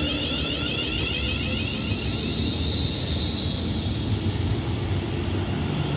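Class 350 Desiro electric multiple units pulling out of the station: a steady rumble with high electric traction whine and repeating rising tones.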